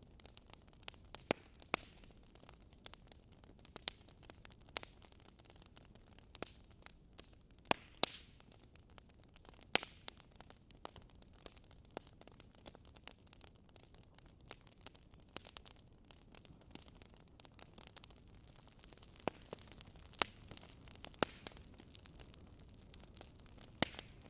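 Wood fire crackling: irregular sharp pops and snaps of burning logs over a faint steady hiss.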